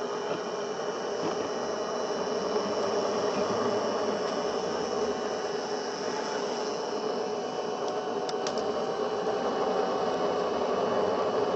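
Small electric motor and gears of an RC scale Land Rover Defender whirring steadily, with a faint tone that drifts slightly in pitch partway through.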